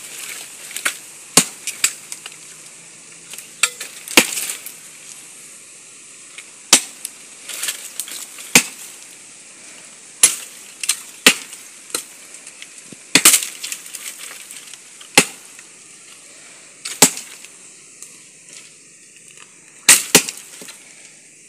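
Wood from a fallen cashew tree being chopped with a blade. Sharp single strikes come at an irregular pace, roughly one every second or two.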